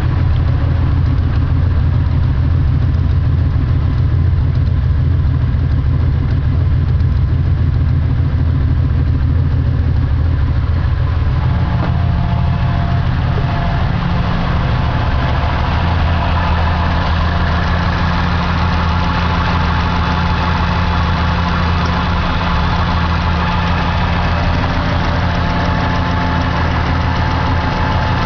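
Car engine idling steadily, just adjusted enough to hold an idle on its own. About eleven seconds in, its note shifts and takes on a brighter edge.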